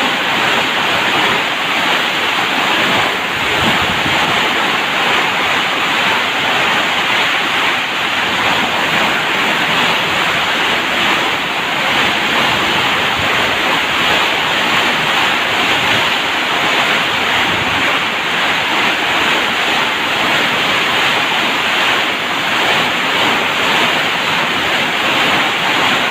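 Heavy rain pouring down in a steady roar of noise.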